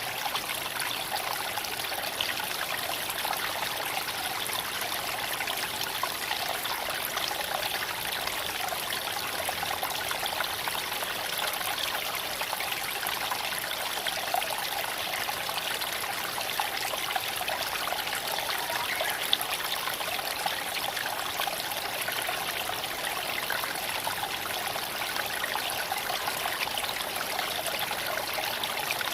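A creek flowing and trickling over stones in a steady, even rush, with a few brief sharp ticks partway through.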